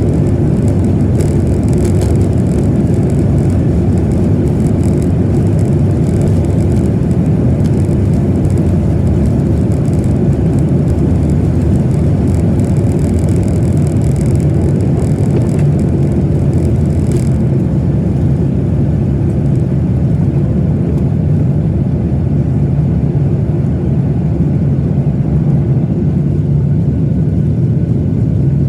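Steady cabin rumble inside a Boeing 737-900ER, its CFM56-7B jet engines and airflow making a loud, even low roar.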